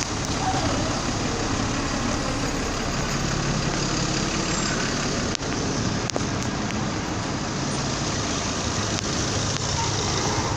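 Car on the move: steady road and engine noise with a low hum.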